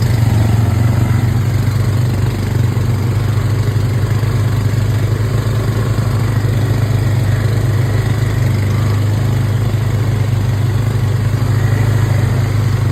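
Small off-road vehicle's engine running at a constant speed, its low note holding steady with no revving.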